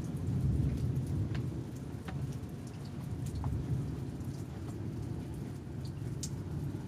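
Low rolling thunder, loudest about half a second in and slowly fading, with scattered raindrops ticking and dripping on nearby surfaces.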